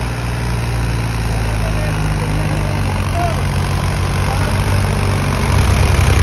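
Mahindra tractor's diesel engine running at low speed, with a steady low hum that grows louder near the end.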